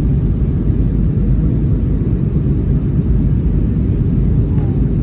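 Airbus A321neo cabin noise: a steady low rumble of the engines and rushing air, heard from inside the passenger cabin while the jet is on its final approach.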